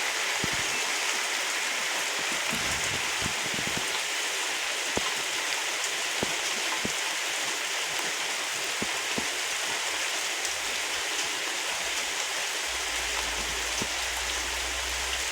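Steady rain falling, with scattered individual drops striking close by. A low rumble joins near the end.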